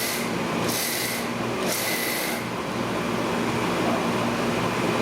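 Three rasping scrapes about a second apart, like a cooking utensil scraped through a pan, over a steady background hum.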